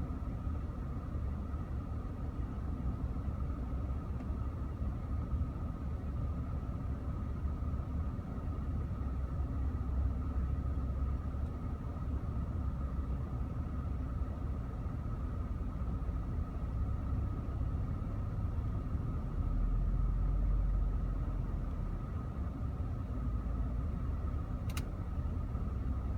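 Audi S5's supercharged V6 idling with a steady low rumble and a faint constant whine, swelling for about two seconds near the end. The idle is uneven, with the revs dropping and spiking, which the owner puts down to a misfire. A single brief tick near the end.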